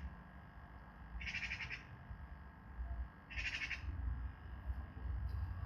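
A bird giving two short, buzzy, trilled calls about two seconds apart, over a low rumble of wind on the microphone.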